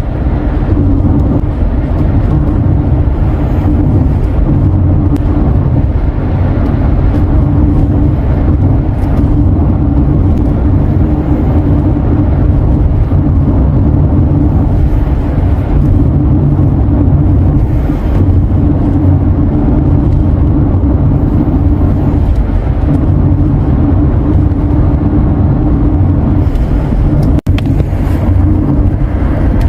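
A car driving: a steady, loud low rumble of engine and road noise, which cuts out for an instant near the end.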